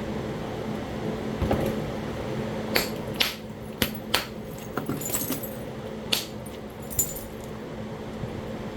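Sharp clicks and clinks of Talahata quartzite pieces knocking together while being knapped or handled, about nine scattered over several seconds. A steady low hum sits underneath.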